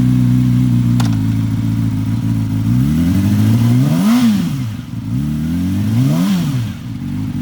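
2015 Yamaha R6's 600 cc inline-four engine, fitted with an aftermarket M4 exhaust, idling just after starting and then blipped twice, each rev rising and dropping back to idle about two seconds apart.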